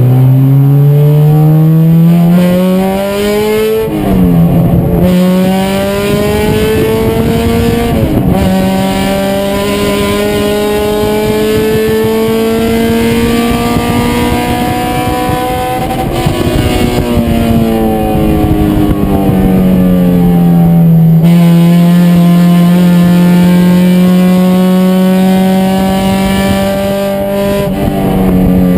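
Race car engine under hard acceleration, its pitch climbing and dropping sharply at two quick upshifts, then holding at high revs. Later the revs fall away as the driver lifts and slows, before building again near the end.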